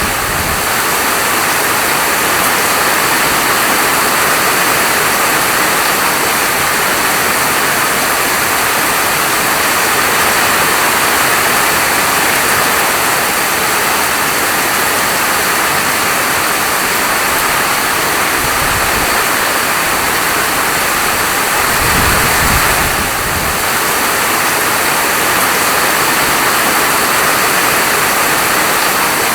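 Steady heavy rain falling, a dense even hiss with a couple of brief low rumbles about two-thirds of the way through.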